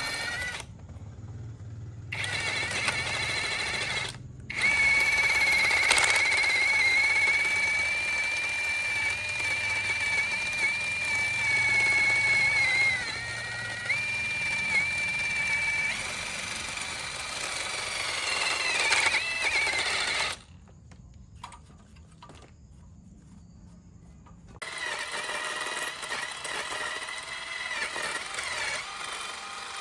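A power tool running with a steady high whine that dips briefly as it loads, broken by abrupt cuts in the sound.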